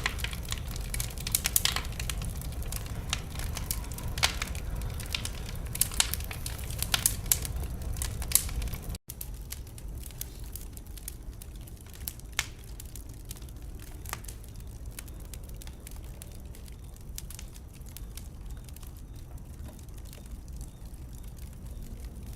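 Wood fire crackling and popping over a steady low rumble. The crackles are dense and loud at first; about nine seconds in the sound drops out for an instant, and after that the fire runs quieter with only scattered pops.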